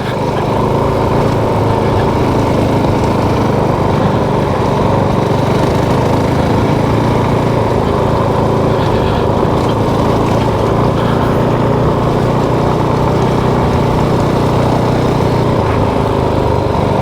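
Motorcycle engine running at a steady, even speed while riding, with no revving and no throttle changes.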